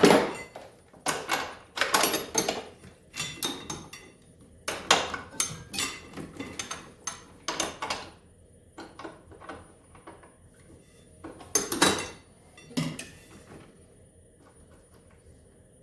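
Metal hand tools and parts clinking and clattering in irregular bursts of sharp knocks as a snowmobile is being taken apart, stopping about 13 seconds in.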